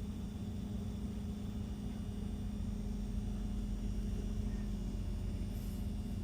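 Steady low mechanical drone with a constant hum that does not change.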